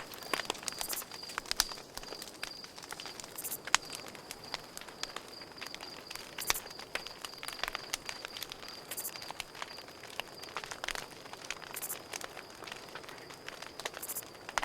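Campfire crackling, with sharp irregular pops and snaps, while a cricket chirps in a fast, steady high trill throughout.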